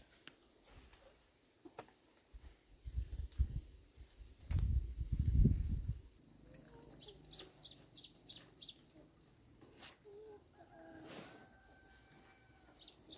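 Steady high-pitched drone of insects such as cicadas or crickets, growing fuller partway through, with runs of short rapid chirps from a small animal about halfway in and again near the end. The loudest sound is a few low rumbling thumps in the first half.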